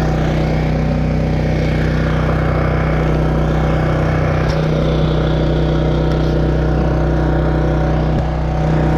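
Small gasoline engine of a 12-ton engine-driven log splitter running steadily, with a slight change in its note about halfway through and a brief dip near the end.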